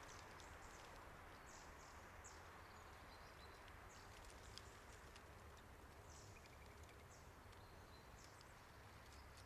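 Faint, irregular footsteps crunching on a leaf-strewn road, over a low outdoor rumble, with a couple of faint high bird calls.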